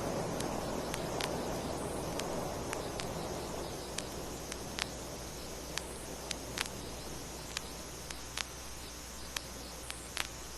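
A rushing noise dies away over the first few seconds as a recorded sound effect fades out. It leaves steady hiss and a low hum, broken by scattered sharp clicks and pops of vinyl record surface noise.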